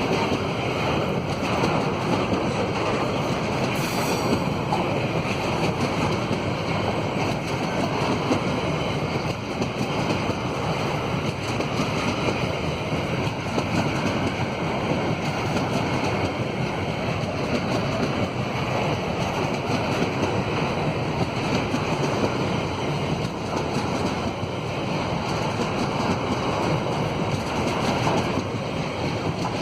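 A long train's wagons rolling past, a steady rumble and rail noise with no break, mixed with wind on the microphone.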